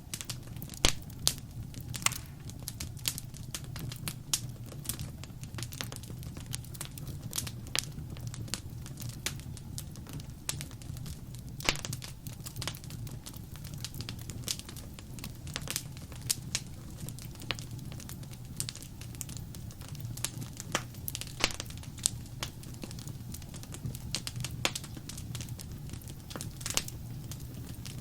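Wood fire crackling: irregular sharp pops and snaps, some much louder than others, over a steady low rumble of the burning fire.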